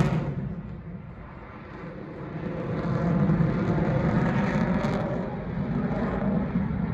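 Jet noise from an F-22 Raptor's twin Pratt & Whitney F119 turbofans during a flyover: a heavy rumble that falls away in the first second, then swells again from about two seconds in and holds.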